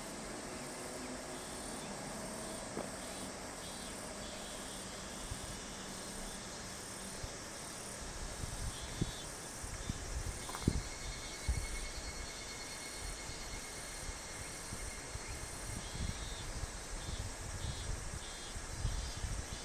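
A steady chorus of summer insects chirring and pulsing, with irregular low thumps and rumbles joining from about eight seconds in.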